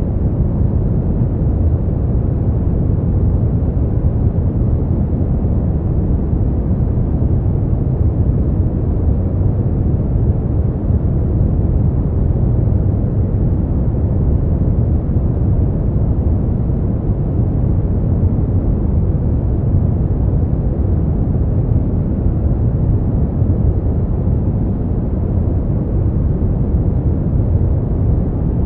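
Steady, unchanging noise for sleep and relaxation, deep and rumbling with most of its weight in the bass and nothing in the high treble.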